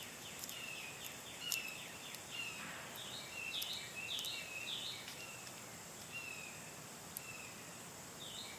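Wild birds calling: short, downward-sliding chirps repeated in quick clusters, over a steady high insect drone, with a few faint sharp clicks.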